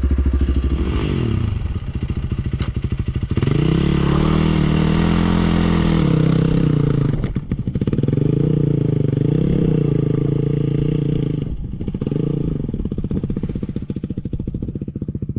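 Single-cylinder engine of a Honda CRF300L dual-sport motorcycle, heard from the bike. The revs rise and fall as it is ridden, with a few brief drops in the engine note and a lower, rougher stretch near the end.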